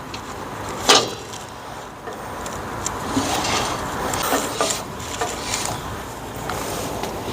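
Hand work with tools on the truck's front drum brake: one sharp knock about a second in, then rubbing and scraping with a few light metallic clinks.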